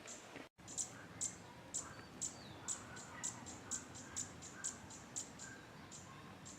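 A cricket chirping, short high chirps repeating about twice a second, with faint bird calls underneath. The sound drops out briefly about half a second in.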